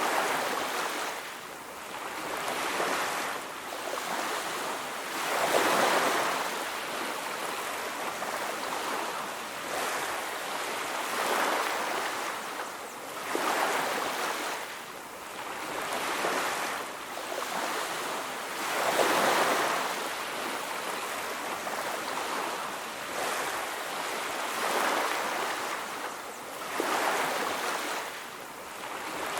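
Ocean waves breaking on a beach, each wave swelling into a rush of surf and ebbing away every few seconds.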